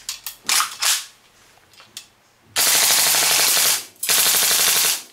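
WE AK-74 gas blowback airsoft rifle firing full-auto on green gas from its magazine: two sharp clacks, then two rapid bursts of about a second each. It is fitted with upgrade parts for a higher rate of fire.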